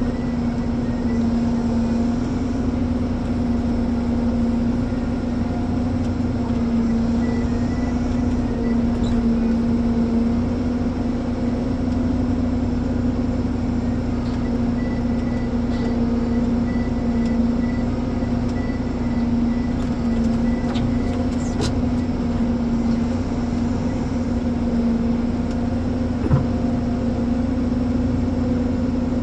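Ponsse Elephant forwarder's diesel engine running at a steady pitch, with one small click near the end.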